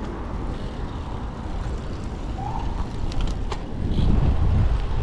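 Street traffic and low wind rumble heard from a moving bicycle, with a few sharp clicks about three seconds in and the rumble growing louder near the end.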